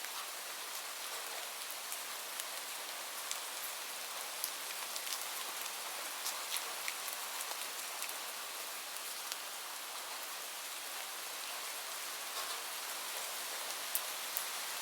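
Steady rain hissing, with scattered small sharp ticks throughout.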